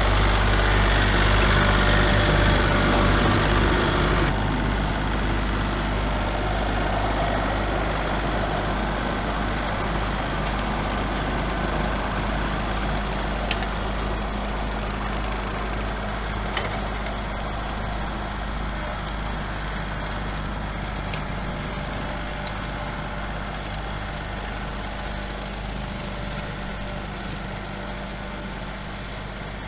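Small tractor's engine running steadily with a low hum and growing slowly fainter. About four seconds in, the higher, rougher part of the sound drops away suddenly.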